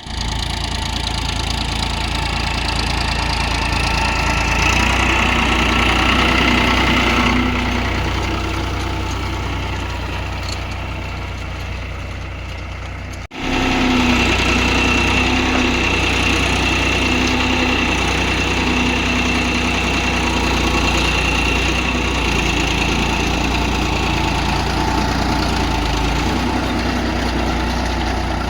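Tractor engine running steadily at a low, even speed. It cuts out for an instant about halfway through and picks up again.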